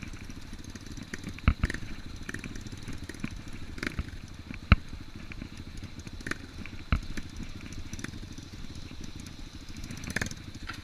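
Off-road motorcycle engine running steadily at low revs, with a few sharp knocks and clatters.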